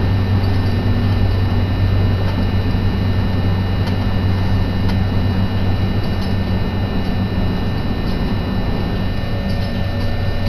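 Steady running noise inside a moving JR commuter train car: a low rumble and hum with faint steady high tones over it, and a few light ticks.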